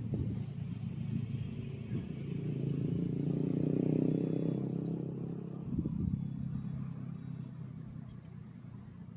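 A motor vehicle engine running, growing louder to a peak about four seconds in and then fading away.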